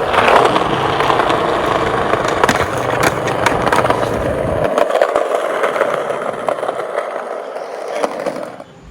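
Skateboard wheels rolling steadily over pavement, with a few clicks and knocks from the board in the first few seconds. The rolling cuts off sharply near the end.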